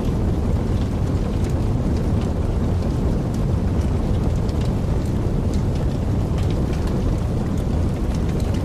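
Wood fire burning in a fireplace: a steady low rumble of flames with many small, irregular crackles and pops throughout.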